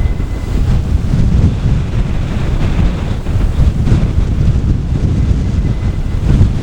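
Strong, gusty wind buffeting the microphone, a loud low rumble that swells and drops with the gusts.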